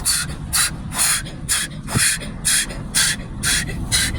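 Automatic car wash water jets sweeping over the car, heard from inside the cabin: a rhythmic hissing spray about twice a second over a steady low rumble.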